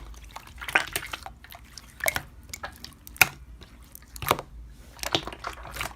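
Slime being squeezed and worked by hand: wet, sticky clicks and pops at irregular intervals, with about five louder pops.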